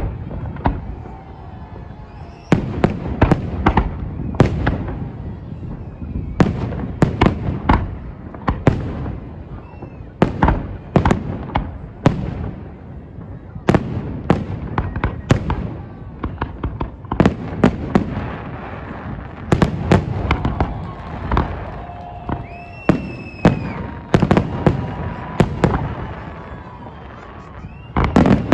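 Fireworks display: aerial shells bursting in quick, irregular succession, sharp bangs, each trailing off in a low rumble.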